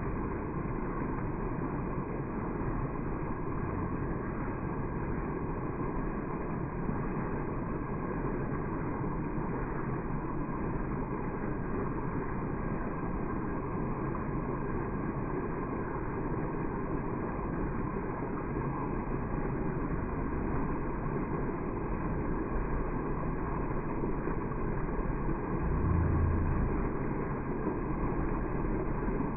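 Artificial waterfall splashing, heard as a steady muffled rush because the slow-motion footage's sound is slowed down.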